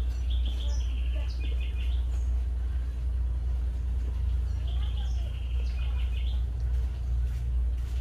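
Small birds chirping in two short runs of quick, high chirps, one starting about half a second in and another around five seconds in, over a steady low rumble.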